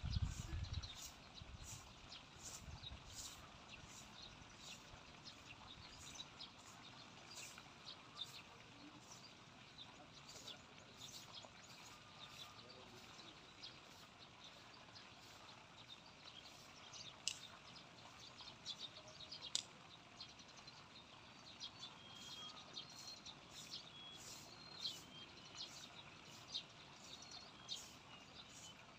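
Faint open-field ambience with many short bird chirps and a few brief whistled calls scattered throughout. A low rumble in the first second.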